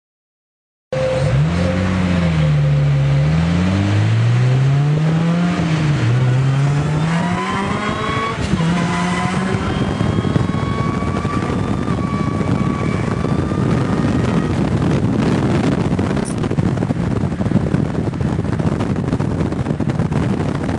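Boosted Honda K-series four-cylinder engine in a Civic, blipped up and down twice and then pulling hard, its pitch climbing. After that a high steady whine sits over a loud rushing noise, which cuts off suddenly near the end.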